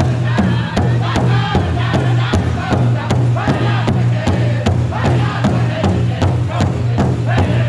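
Powwow drum group singing around a large shared hand drum: a steady, fast, even drumbeat under several voices singing together in high, wavering lines.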